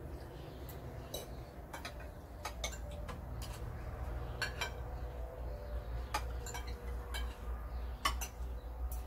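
Spoon and fork clinking and scraping against plates during a meal, a dozen or so light irregular clicks over a low steady hum.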